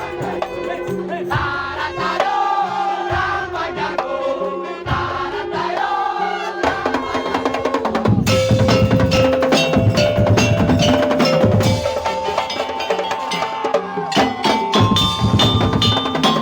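Madurese daul (tongtong) music: a wavering melody line over drums at first, then from about eight seconds the full ensemble plays louder, with dense drumming, wooden slit-drum strokes and held chime-like tones.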